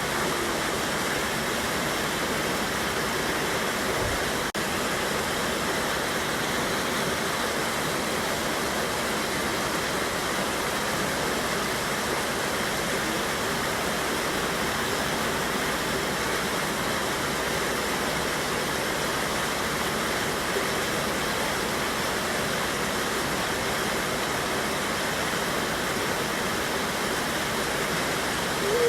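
Mountain river water pouring over a small waterfall: a steady, even rush of water.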